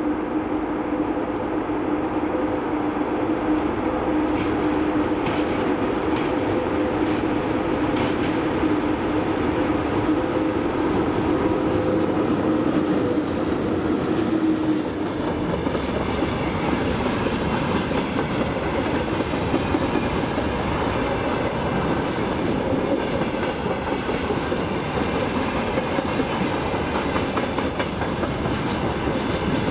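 Electric locomotive-hauled train passing close by. For about the first half a steady two-tone hum sounds over the rumble; then the wagons go by, rumbling and clattering rhythmically over the rail joints.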